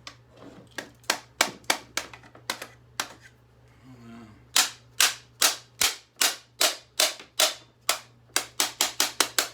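A series of sharp clicks, slow and uneven at first, then steady at about two a second, speeding up to a quick run near the end.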